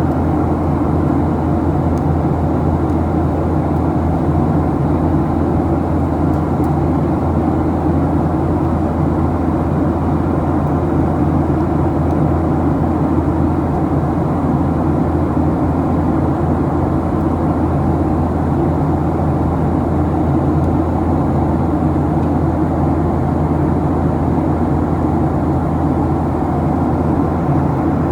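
Steady cabin noise of a Boeing 737-800: engine and airflow running evenly, heard from inside the passenger cabin.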